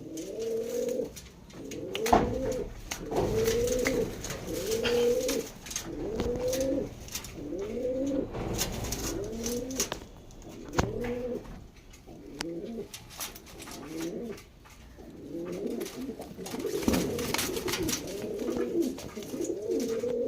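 Domestic Lahore pigeon cooing over and over, about one coo a second, each a low bending call. Scattered short clicks run through it.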